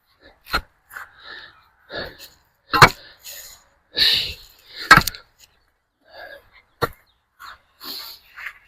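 Pick striking into the bottom of a post hole, several hard blows a second or two apart, hitting a big rock. There is heavy breathing between the blows.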